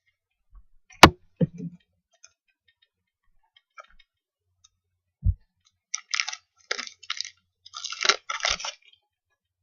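Trading cards and packaging being handled: a sharp click about a second in, a few soft knocks and a thump, then a run of short crinkling, tearing sounds near the end, like a foil card pack being torn open.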